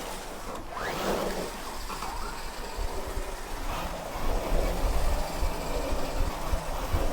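Toy remote-control cars driving during a chase, a steady noisy whir with wind buffeting the microphone in irregular low rumbles from a few seconds in.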